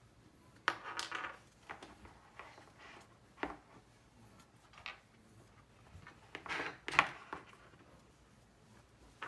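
Handling noises from unboxing an Iron Man action figure: scattered clicks, knocks and rustles of the figure and its packaging, in a few short clusters with the loudest one about seven seconds in.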